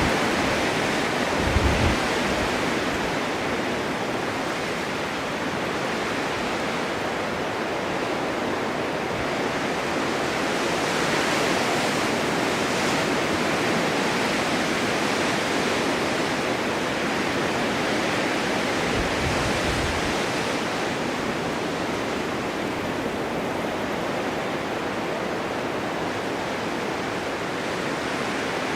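Blizzard wind blowing steadily with slow swells and blown snow hissing, with a few low gusts buffeting the microphone about two seconds in and again near twenty seconds.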